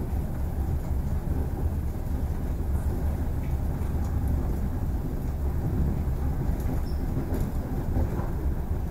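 Cabin noise inside an ED4M electric multiple-unit train running along the line: a steady low rumble of the wheels on the rails, with a few faint ticks.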